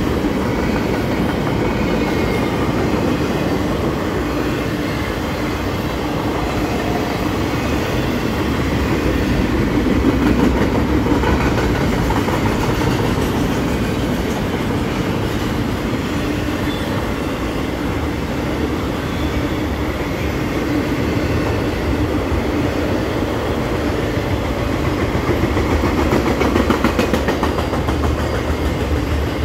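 CSX intermodal freight train's double-stack container cars rolling past: a steady rumble of steel wheels on the rails, with many quick clicks from the wheels.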